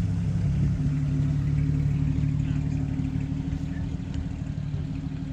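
Car engine running at raised revs: its pitch steps up about half a second in and then holds steady.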